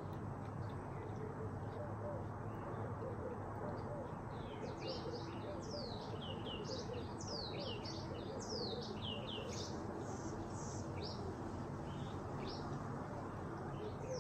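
Small birds chirping: many quick, high, falling chirps, mostly from about four seconds in, over a steady background noise.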